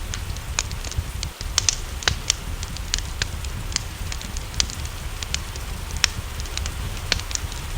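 Wood fire crackling in a fireplace, with irregular sharp pops several times a second, over a steady low rumble and a soft hiss of rain.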